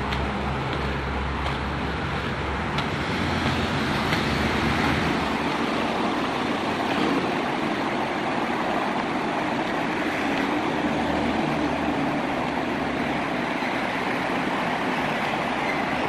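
Road traffic on a city street: a steady wash of passing cars, with the low rumble of a vehicle engine going by in the first few seconds and again briefly in the middle.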